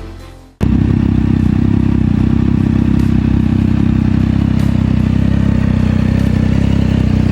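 Triumph Trident 660's inline three-cylinder engine idling steadily through an Akrapovič exhaust. It cuts in suddenly about half a second in and holds an even pitch and level, with no revving.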